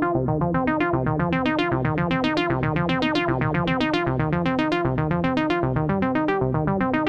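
Analog polyphonic synthesizer playing a fast sequenced, arpeggiated pattern over a repeating bass line, with the filter sweeping open and closed so the tone brightens and darkens in slow waves.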